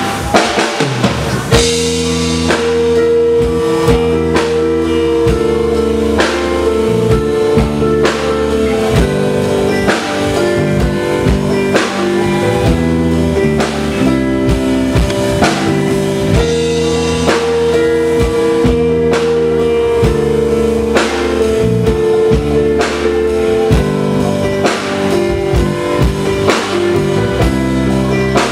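Live rock band playing an instrumental passage between sung verses: a drum kit keeping a steady beat under sustained chords and a bass line.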